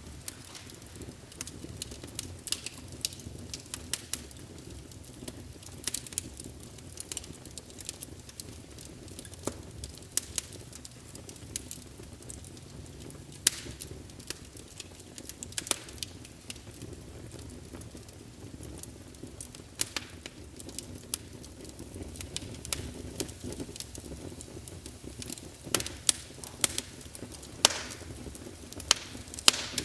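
Wood fire in a fireplace crackling, with irregular sharp pops and snaps over a steady low rumble of flame; a few louder pops stand out.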